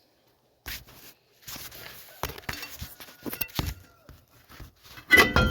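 Metal tools and parts clinking and knocking at irregular intervals, some strikes ringing briefly. There is a loud ringing metal clang near the end.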